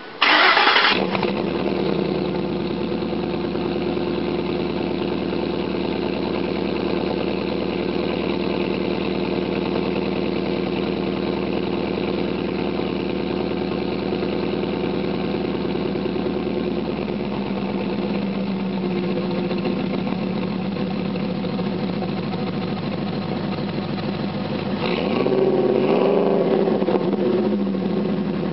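Supercharged Ford F-150 V8 with a Borla XR-1 exhaust cold-starting: the starter cranks briefly and the engine catches with a loud flare, then settles into a steady fast cold idle. The idle note shifts a little past halfway, and near the end the throttle is blipped once, the pitch rising and falling back.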